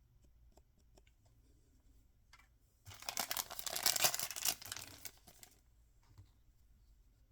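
Toy packaging being torn open by hand: a dense crackling rip that starts about three seconds in and lasts nearly three seconds, with a few small taps and rustles before it.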